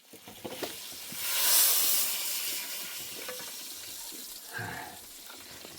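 A hot cooking pot hissing as something is added to it. The hiss comes on suddenly, swells to its loudest about a second and a half in, then slowly dies down.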